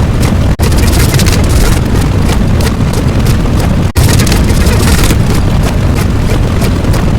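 Loud, dense rumbling noise, heaviest in the low end, from a sound effect. It cuts out for an instant twice, about half a second in and again about four seconds in.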